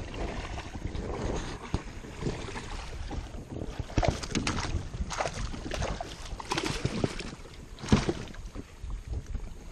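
Irregular splashing and clatter at a fishing kayak as a big bass is fought and brought in, over a low wind rumble on the microphone.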